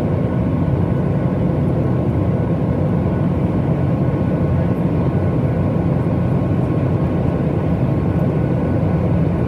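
Steady cabin noise of a Boeing 737 MAX 8 in operation: a constant low rush of engine and airflow noise, with a few faint steady whining tones above it.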